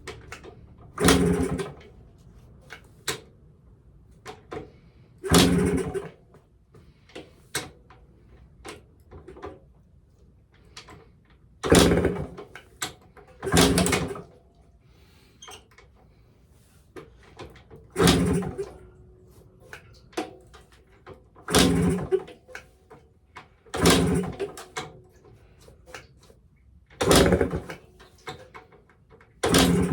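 1983 Yamaha AG100 two-stroke engine being kick-started over and over, a run of about nine hard kicks a few seconds apart, each turning the engine over without it firing: the spark plug lead is not connected.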